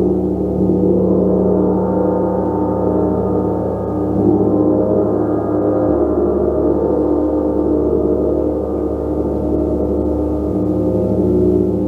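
Gong played continuously: a dense, sustained wash of many overlapping tones at a steady level, its deepest tones shifting a few times.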